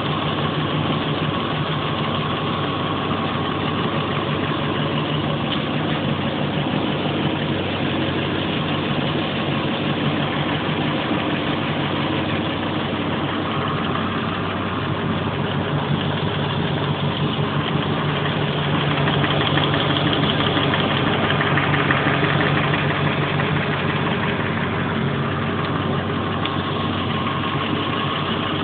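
An engine idling steadily, running a little louder for a few seconds about twenty seconds in.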